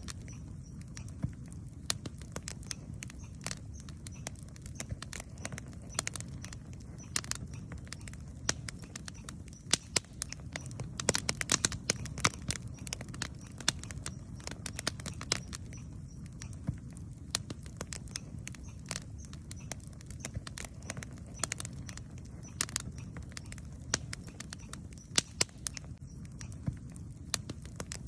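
Wood campfire crackling and popping: irregular sharp snaps, thicker in some stretches, over a steady low rumble of the burning fire.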